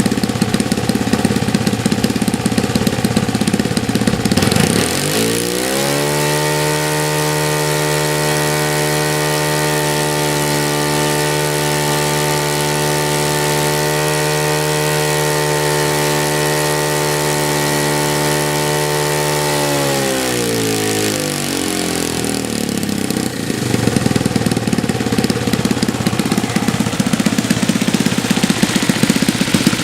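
Saito FA-125a single-cylinder four-stroke glow engine on an RC model plane, running rough and low, then opened up to a steady high-rpm run held for about fourteen seconds, then throttled back down to a lumpy idle.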